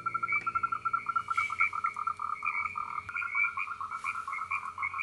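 Frogs calling in a chorus: fast, overlapping trains of short repeated notes at two pitches.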